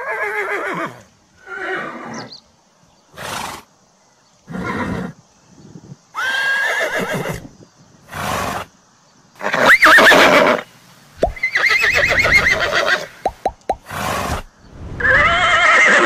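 Horse neighing and whinnying repeatedly, one call after another about every one to two seconds, some calls sliding up then falling away, with shorter breathy bursts in between.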